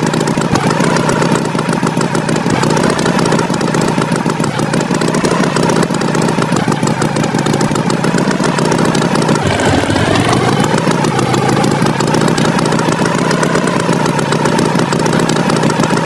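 Tractor engine sound effect running steadily, its pitch dipping and rising once about ten seconds in.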